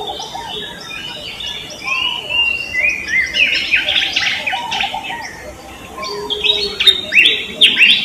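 Several birds chirping, short rising and falling chirps overlapping one another, with dense flurries of quick chirps around the middle and again near the end.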